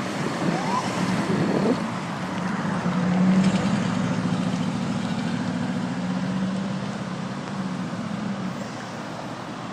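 A vehicle engine running steadily, a low hum, over traffic noise, with a few brief higher sounds rising and falling in the first two seconds.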